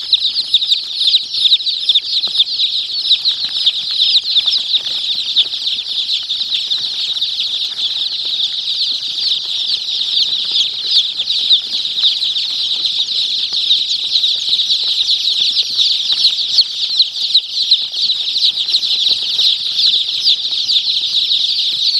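A crowd of baby chicks peeping without pause: many short, high, falling peeps overlapping into a dense chorus.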